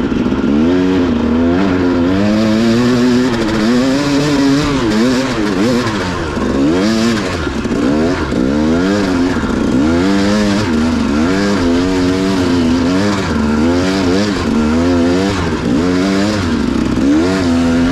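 Dual-sport motorcycle engine running under way, its revs rising and falling every second or so with constant throttle changes.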